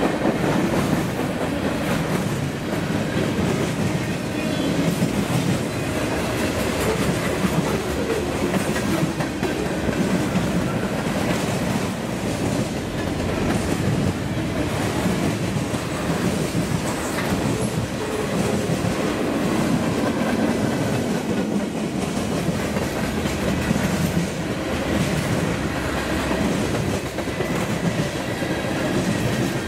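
Freight train cars rolling past close by. The wheels make a steady rumble on the rails, with many small clicks running through it.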